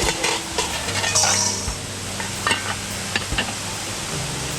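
Serving spoon knocking and scraping against a cooking pot and bowls as food is dished out, a string of separate clinks over a steady hiss.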